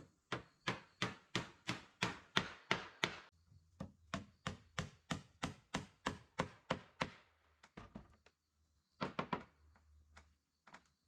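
A hand tool striking wood: quick, evenly spaced chopping strikes, about three a second, in two runs of about three seconds each, then a short flurry and a couple of single strikes near the end.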